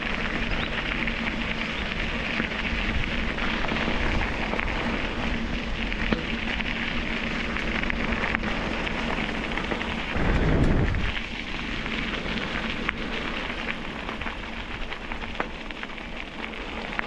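Steady crackling noise of riding with a mounted action camera: tyre noise on a rough path and wind buffeting the microphone. A louder low rumble comes briefly about ten seconds in.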